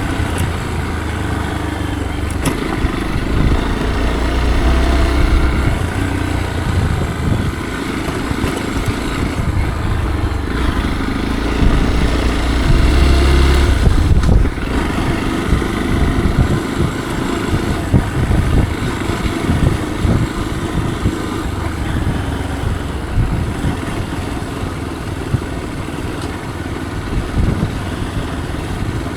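Motorcycle engine running continuously while riding, with heavy low rumble that swells for a few seconds twice, once early on and again past the middle.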